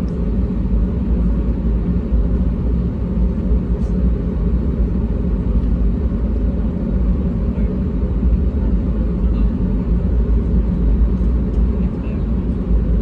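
Cabin noise inside an Airbus A320neo airliner in flight: a steady low rumble of the jet engines and rushing air that does not change.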